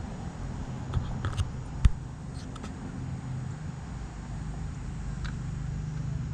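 Bicycle on the move: a steady low rumble with a few sharp clicks and rattles, the loudest knock just before two seconds in.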